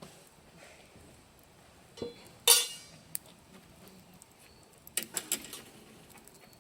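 Cookware and tableware being handled, clinking: a small knock about two seconds in, a loud ringing clink just after, then a quick run of several clinks around the five-second mark.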